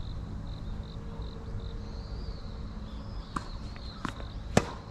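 Tennis ball struck by a racket and bouncing on a hard court: three sharp pops in the second half, the last the loudest. Wind rumbles on the microphone throughout.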